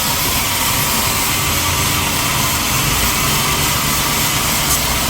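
Sawmill machinery running steadily and loudly, the saw and its motor going without a break.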